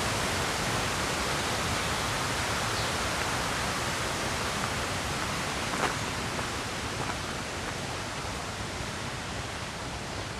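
River rapids rushing in a steady, even roar of water that slowly grows a little quieter. A few faint clicks sound over it, with one sharper click a little past halfway.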